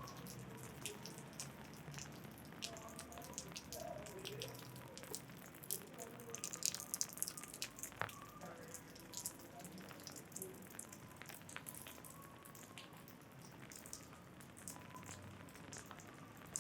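Raindrops tapping on an umbrella overhead as irregular small clicks, with a denser flurry of drops about six to seven seconds in.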